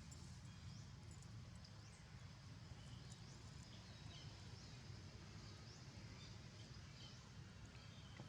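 Near-silent outdoor ambience: a steady low rumble with faint, scattered short high chirps from small animals.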